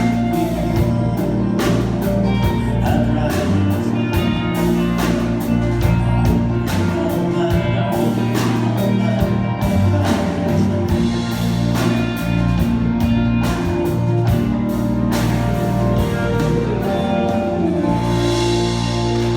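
Live country band playing the end of a song: guitars and bass over a steady drum-kit beat. The drumming stops near the end and the band lets a final chord ring out.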